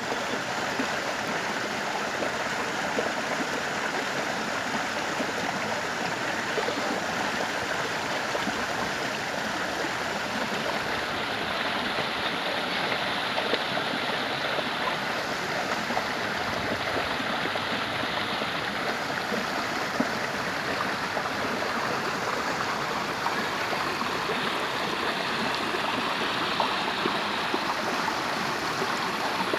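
Running water of a stream, flowing steadily with an even, unbroken rush and fine splashing.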